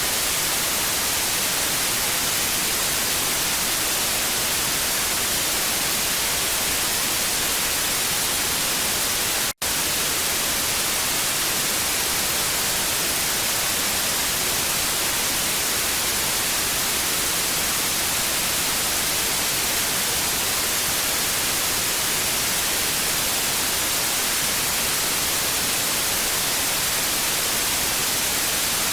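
Steady TV static: an even, bright hiss that drops out for a split second about ten seconds in.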